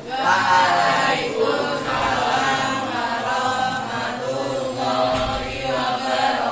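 Voices singing together in a choir-like chant, a continuous vocal passage with held and gliding notes.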